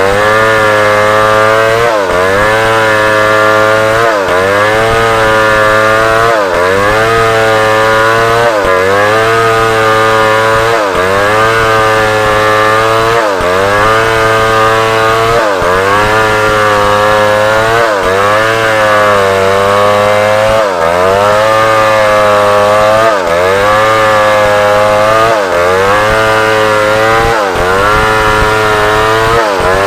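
Large chainsaw running at high revs, cutting through African wood (Maesopsis). Its pitch sags and recovers about every two seconds as the chain bites under load.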